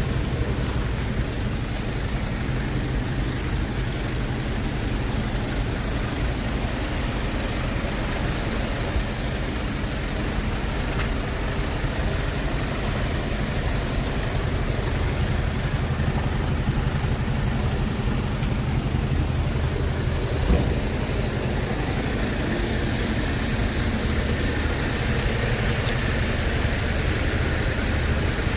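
Scania R tractor unit's diesel engine idling steadily, with one short knock about 20 seconds in.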